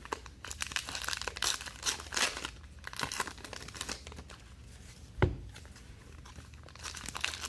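Trading-card pack wrappers being torn open and crinkled, with a sharp knock about five seconds in.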